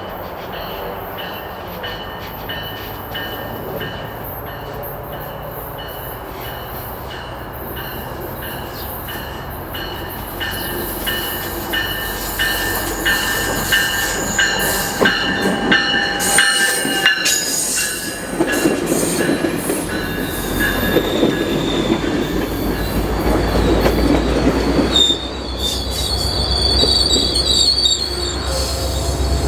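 Sound Transit Sounder commuter train rolling into the station, its wheels and brakes squealing in high steady tones. A low rumble and clatter grow louder toward the end.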